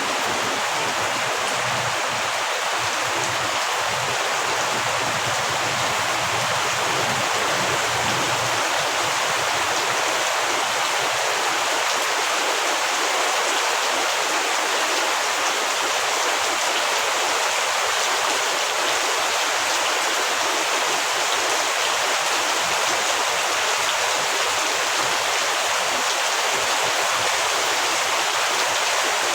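Heavy rain falling steadily, an even hiss with no let-up. A faint low rumble runs under it for roughly the first eight seconds.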